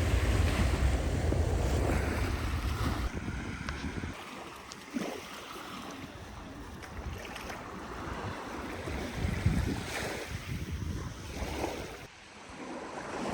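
Sea waves breaking and washing up on a beach, surging and falling back every couple of seconds. Wind buffets the microphone for the first four seconds or so.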